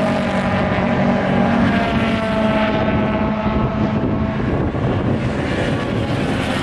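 Car engine and exhaust running with a steady droning note that sags slightly in pitch, giving way about halfway through to a rougher, noisier engine rumble.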